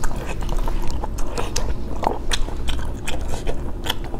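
Close-up chewing and biting of spicy stir-fried sea snails, with many sharp clicks as the shells are handled and the meat is worked out.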